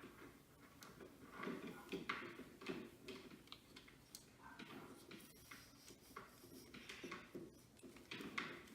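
Near silence: room tone with faint, irregular soft handling noises.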